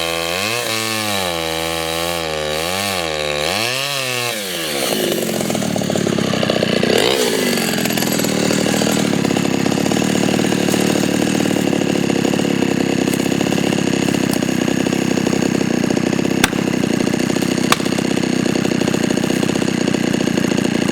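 Pioneer P20 two-stroke chainsaw revving up and down for the first few seconds, then dipping and climbing back to run at steady high revs. Two sharp clicks come near the end.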